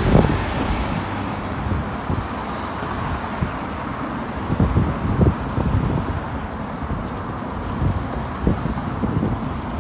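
Road traffic passing steadily, with wind bumping the microphone now and then.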